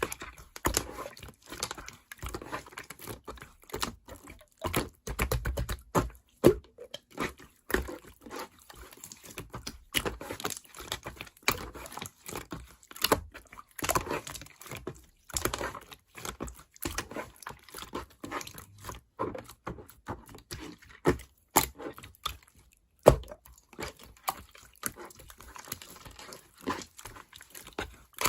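Slime being squeezed, stretched and poked by hand, making irregular sticky clicks and crackles, with a few louder pops.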